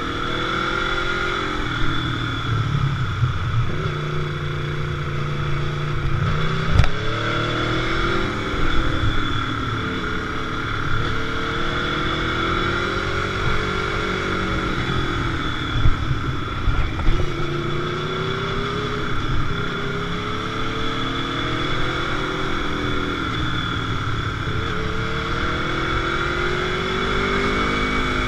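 Motorcycle engine under way, its pitch rising and falling again and again as the throttle opens and closes, over a steady low rush.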